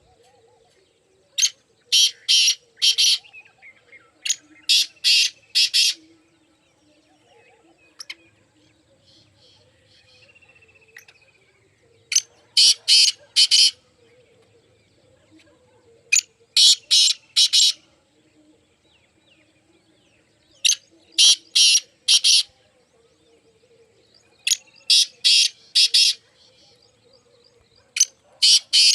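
Black francolin calling: loud, harsh, rasping phrases of about four notes each, repeated seven times with pauses of a few seconds between them.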